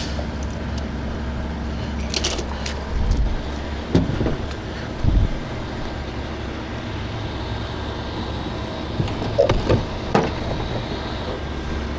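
Steel tow chain clinking and knocking a few times as it is worked through a wheel rim, over a steady low engine hum.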